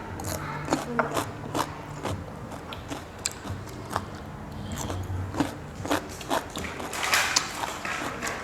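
A person chewing and biting into rice-paper rolls filled with pig's ear, close to the microphone, with many short crunchy clicks.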